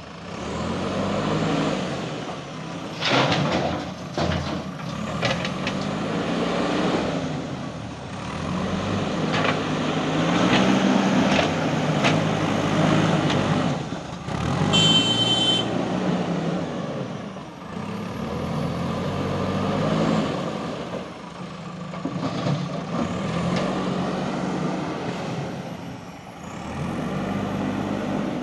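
JCB 3DX Super backhoe loader's diesel engine revving up and dropping back again and again as the machine works the bucket and loader arms, with clanks and knocks of material and metal. A brief high beep sounds about halfway through.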